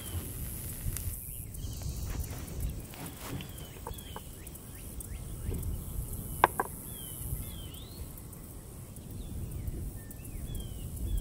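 Outdoor ambience: birds chirping, short quick calls scattered throughout over a low steady rumble, with scattered clicks. The sharpest click comes about six and a half seconds in.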